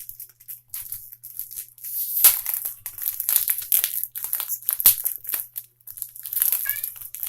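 Plastic packaging crinkling and rustling as items are unwrapped, with sharper crackles about two and five seconds in. Near the end, a short high-pitched cry from a pet behind a door.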